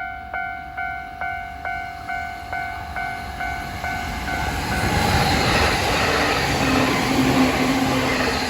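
Level-crossing warning bell dinging at about two strikes a second, fading under the rising noise of an electric train. From about five seconds in, the train passes at speed with a loud rushing rumble and a low steady hum.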